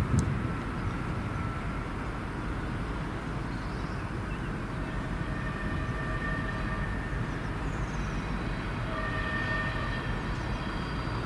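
Train on the move: a steady low rumble, with a sharp click just after the start and a few faint high tones later on.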